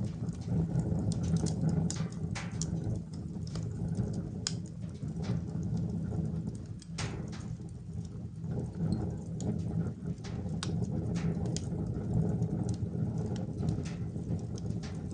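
Wood fire burning in a wood-burning stove, crackling with many irregular sharp pops over a steady low rumble.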